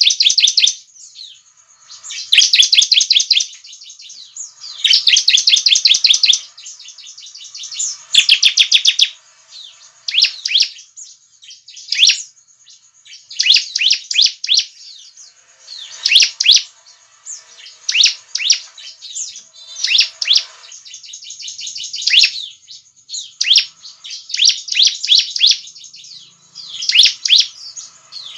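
Bar-winged prinia (ciblek) singing loudly: high, fast phrases of rapidly repeated chirping notes, each about a second long, repeating every second or two.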